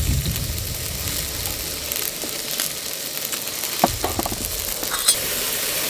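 Pork belly and pork jowl sizzling as they cook, a steady frying hiss, with a dull knock at the start and another about four seconds in.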